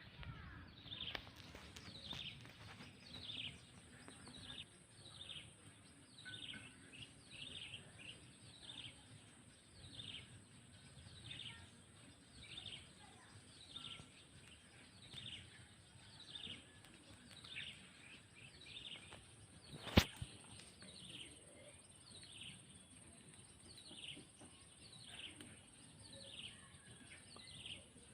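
Kingfisher calling: a long, regular run of short, high, downward-sliding notes, a little more than one a second. A single sharp click comes about twenty seconds in.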